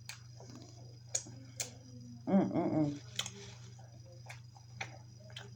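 Wet mouth clicks and lip smacks while chewing food, a sharp click every half second to a second, with a short hummed "mm" about two and a half seconds in.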